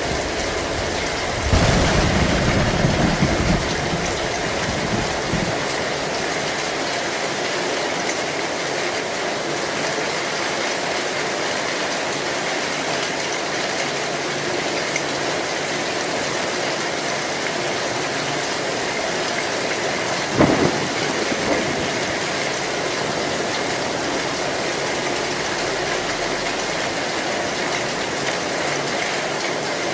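Heavy rain beating steadily on an old tin roof. Thunder rumbles low and loud about a second and a half in, and a sharp crack of thunder sounds about two-thirds of the way through.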